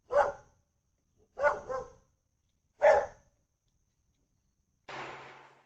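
A dog barking: three loud barks about a second and a half apart, the middle one a quick double. Near the end comes a short burst of hiss with a low hum under it.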